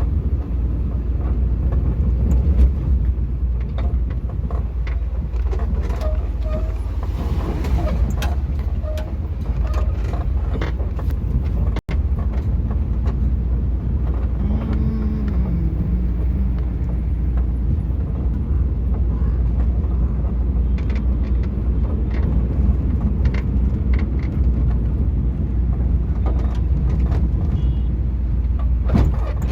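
Vehicle driving, with a steady low rumble of engine and road noise and scattered knocks. The sound cuts out for an instant about twelve seconds in.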